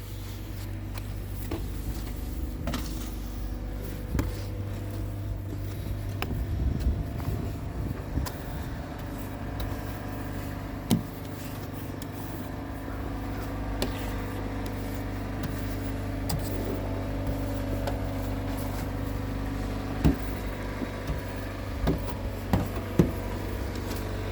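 Car engine idling steadily shortly after a cold start, with a few short clicks and knocks scattered through.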